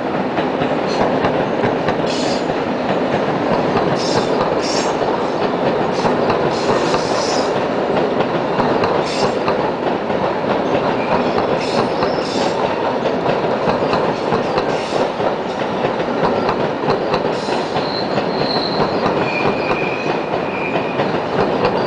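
Double-deck passenger trains rolling across a track field full of points: a steady rumble of steel wheels on rail with clickety-clack. Brief high screeches come every few seconds, and near the end there are two drawn-out wheel squeals.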